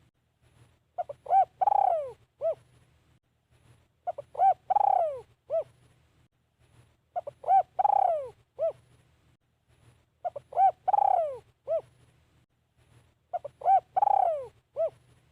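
Spotted dove cooing, repeating the same phrase about every three seconds, five times. Each phrase is a couple of short coos, then a longer coo that falls in pitch, then one short closing coo.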